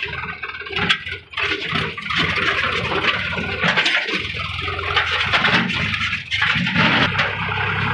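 Sonalika DI 740 III tractor's diesel engine running steadily, with a loud rushing noise over it.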